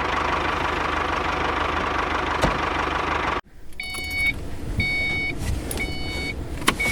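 A small engine running steadily, cutting off abruptly about halfway through. It is followed by four short, evenly spaced beeps, about one a second, like a vehicle's reversing alarm.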